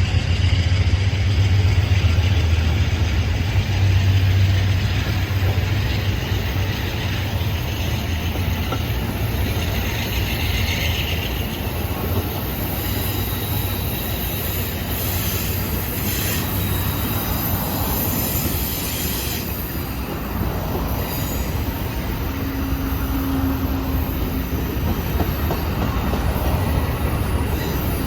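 Train rolling past on the rails, with a steady low hum over the first few seconds, then a sustained rumble of wheels on track and a little wheel squeal.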